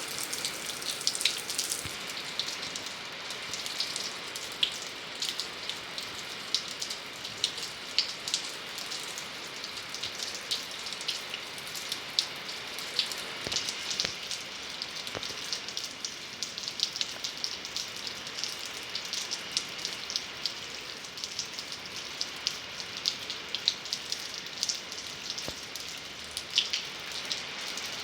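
Steady rain: an even hiss of falling rain with many sharp drops ticking on a hard surface.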